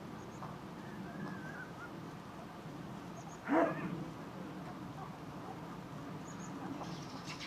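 Eurasian coot giving one short, loud, barking call about three and a half seconds in, with a fainter wavering call earlier, over a steady low background.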